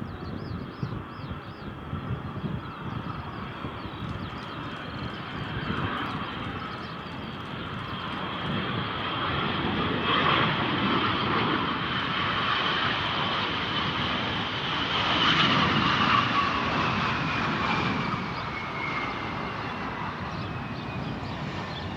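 Jet aircraft passing overhead. The engine noise builds, peaks twice partway through, then eases, while a high whine slowly falls in pitch toward the end as the plane goes by.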